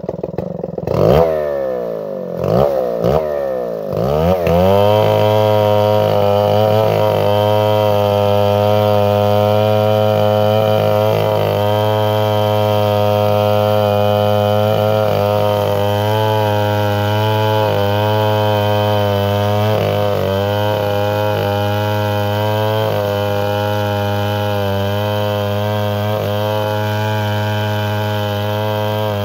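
Stihl 070 two-stroke chainsaw blipped up and down a few times, then held at high revs from about four seconds in, the pitch wavering slightly under load.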